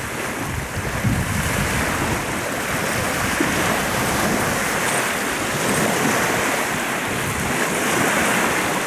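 Lake waves washing onto the shore, a steady rush, with wind buffeting the microphone.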